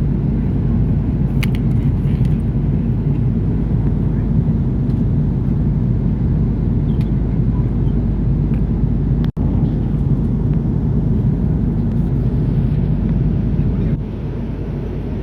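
Steady low rumble of airliner cabin noise inside an Airbus A330-300, the mix of airflow and engine noise heard from an economy seat. There is a sudden break about nine seconds in, and the sound is a little quieter near the end.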